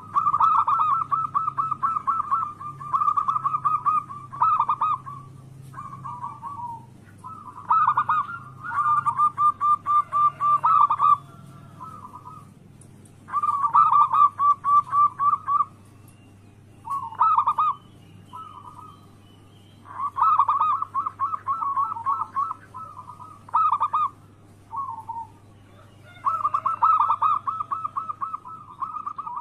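Zebra doves (perkutut) cooing: phrase after phrase of rapid, pulsed coo notes, with short pauses between phrases.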